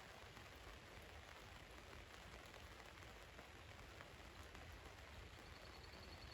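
Rain falling on a van, heard as a faint, steady hiss with scattered single drop ticks.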